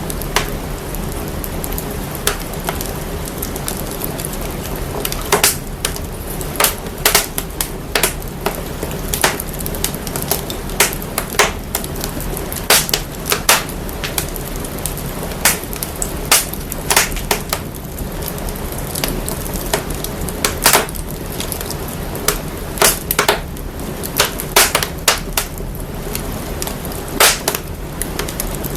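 Wood fire crackling, with irregular sharp pops and snaps over a steady low rumble; the fire sound is processed to bring out deep bass.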